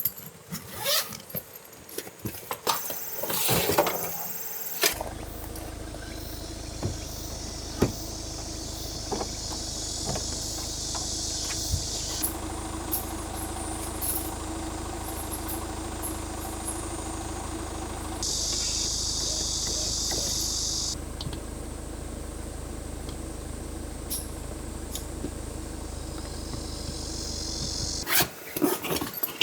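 A car running, with a steady low engine and road rumble that sets in suddenly about five seconds in and stops shortly before the end. It follows a few sharp clicks and knocks.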